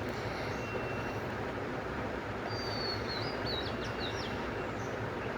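Steady background noise with a small bird chirping a quick series of short, high whistled notes about halfway through.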